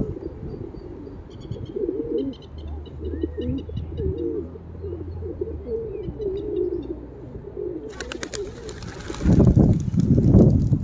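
Birds calling: low wavering calls repeated over several seconds, with faint high chirps above them. About eight seconds in, a louder rustling noise with sharp clicks takes over.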